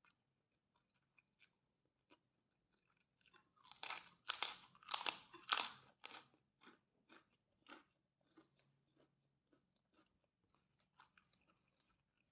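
A person eating fried rice close to the microphone: faint mouth and chewing clicks, with a dense run of louder crunching clicks for about three seconds near the middle, then sparser ones.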